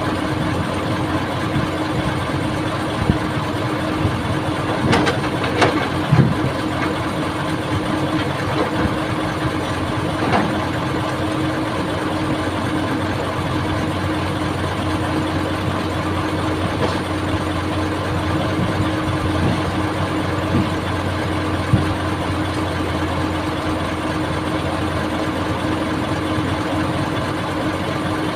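Old excavator's diesel engine running steadily, with a few short knocks around five to six seconds in and again near ten seconds.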